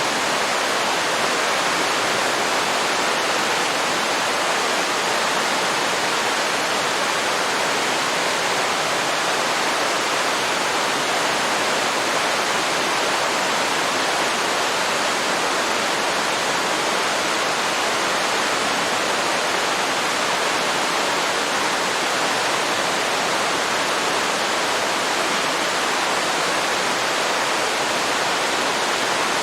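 Waterfall pouring steadily into a river, a constant even rush of falling water.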